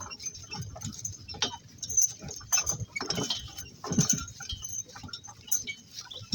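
A two-donkey work cart on the move: irregular knocks and clops from hooves and the cart, with harness hardware jingling.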